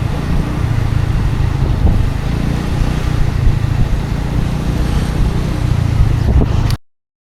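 Scooter engine running steadily while being ridden, a low hum under road noise. The sound cuts off abruptly near the end.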